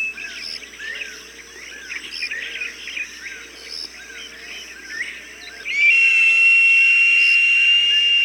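Small birds chirping in quick, repeated calls, then about six seconds in a hawk's long, high, drawn-out whistling call starts and becomes the loudest sound, held almost level for several seconds.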